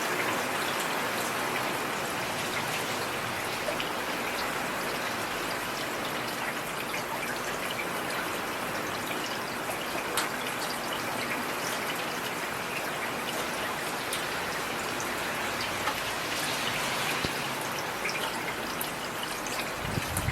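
Heavy rain falling steadily, a dense hiss with scattered sharper drops, one a little louder about halfway through.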